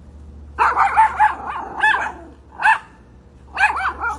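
A dog barking in short, high yips: a quick run of about six, then a single one, then a few more near the end.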